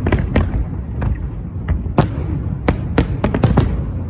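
Fireworks going off: sharp cracks over a continuous low booming, with a quick run of cracks about three seconds in.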